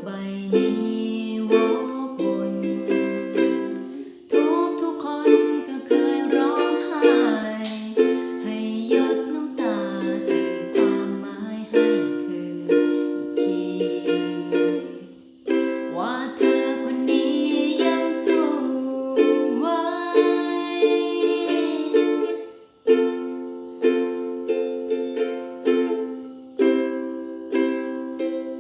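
Ukulele playing a slow song: steady strummed chords, with a higher gliding melody line over them at times.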